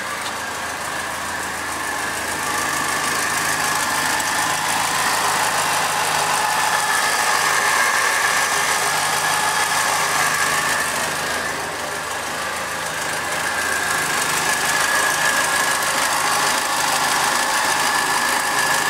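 Triumph Dolomite 1300 four-cylinder engine running steadily while it warms up on its first run after being fitted, running evenly and cleanly.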